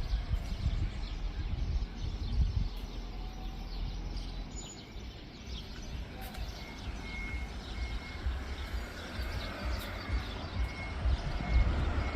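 Outdoor background noise: an uneven low rumble, with a faint high chirp repeated several times in the second half.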